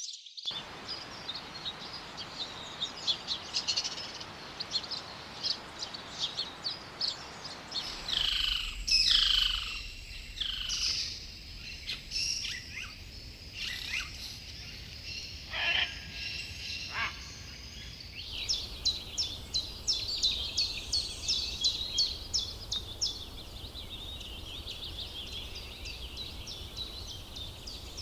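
Wild birds calling in three short stretches, each with a different sound. First come fast high chirps, then louder calls sliding down in pitch, then a quick run of sharp repeated chirps, with a steady background of insects and forest noise throughout.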